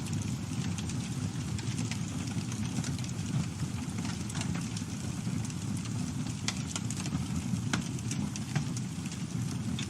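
Campfire burning: a steady low rumble of flame with scattered sharp crackles and pops, several louder pops in the second half.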